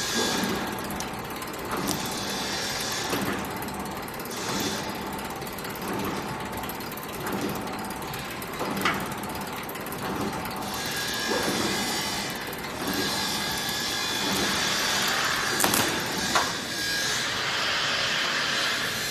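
Wire-mesh and razor-wire production machinery running, with a stroke repeating about every one and a half seconds over a steady mechanical clatter, and a few sharp clicks near the end.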